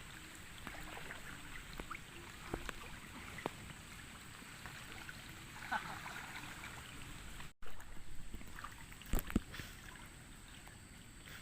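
Water sloshing and splashing in a stream, with scattered small knocks and clicks and a couple of louder knocks near the end.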